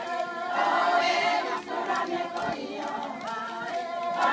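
A group of women singing together, many voices carrying one melody.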